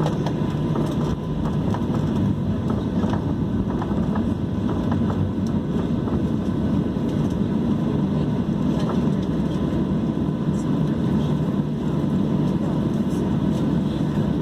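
Steady cabin noise inside a Boeing 737-800 during pushback: a constant low rumble of airflow and machinery, with faint steady tones above it.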